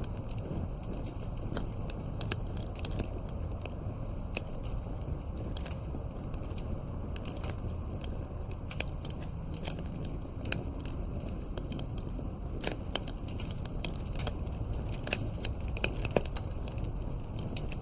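Wood campfire burning: a steady low rumble from the flames under frequent irregular crackles and pops from the burning wood, with a few louder snaps in the second half.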